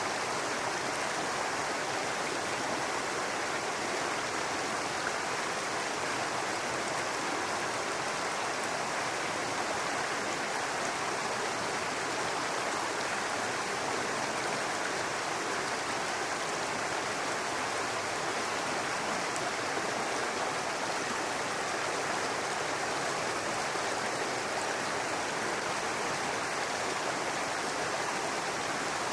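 A brook running steadily over rocks, a continuous babbling rush of water with no breaks.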